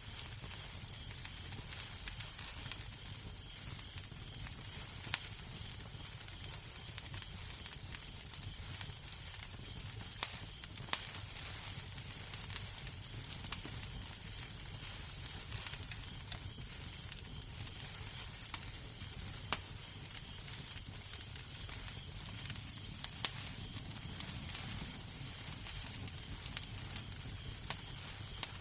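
Wood fire in a fireplace crackling: a steady hiss over a low rumble, with irregular sharp pops and snaps.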